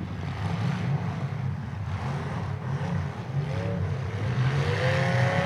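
Several demolition derby cars' engines running together in a steady low rumble, with an engine revving up about three and a half seconds in and again near the end.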